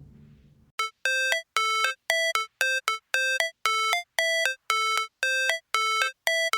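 A music track fades out, then a simple electronic tune of short beeping notes begins about a second in, roughly two notes a second, stepping between a few pitches like a ringtone.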